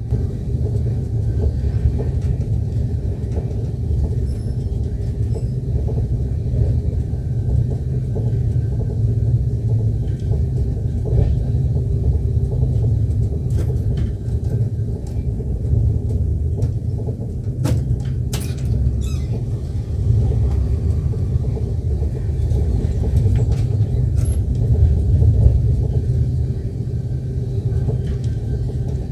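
Passenger train running along the track: a steady low rumble of the coach and wheels, with a few sharp clicks or knocks about two-thirds of the way through.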